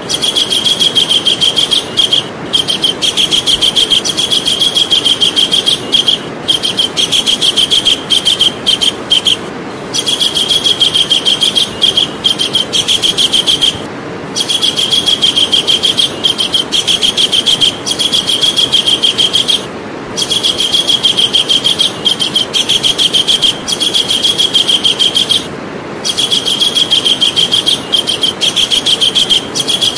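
Javan kingfisher calling: a fast run of high repeated notes in bouts of about four to five seconds, broken by short pauses, over a steady hiss.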